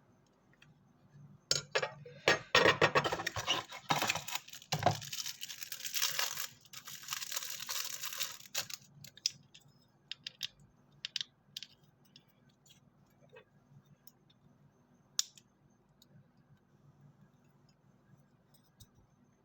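Packaging being unwrapped: a few seconds of dense rustling and crinkling with clicks, then scattered light clicks and taps as the small model and its box are handled.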